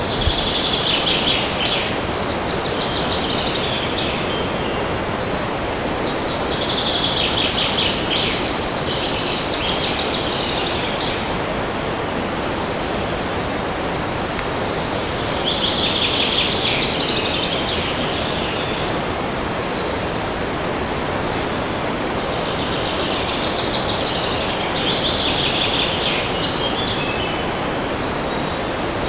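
Steady wind noise through a forest, with a songbird singing a high, trilling phrase of two to four seconds about every eight seconds, four times.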